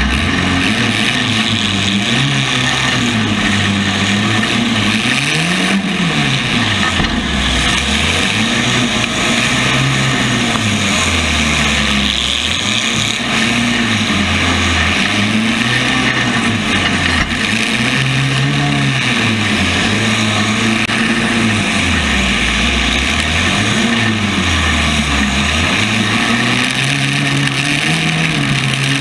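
Compact-class race car engine at racing speed, its pitch climbing and dropping again every few seconds as the driver accelerates and lifts, over a constant hiss.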